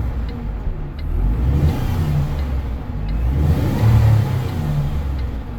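Iveco Stralis truck's six-cylinder diesel engine revved twice from idle, rising and falling about two and four seconds in.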